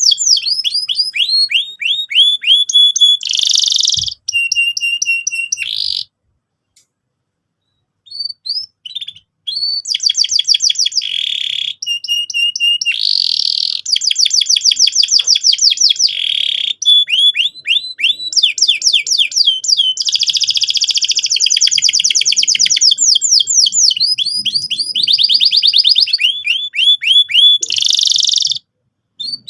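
Domestic canary in full song: long, fast rolling trills of rapidly repeated high notes, changing from one trill type to the next. The song breaks off for about two seconds early on, then runs on.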